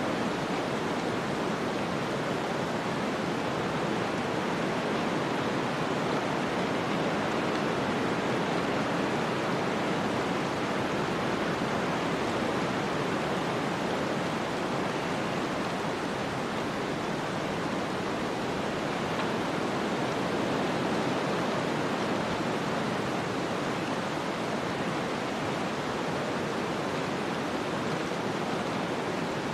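Snowstorm ambience: a steady, even rush of wind-driven noise with no distinct events.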